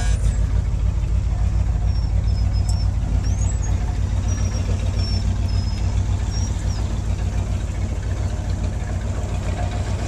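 Ford pickup truck's engine running steadily at low revs, with an even low pulsing, while the truck drags a felled tree.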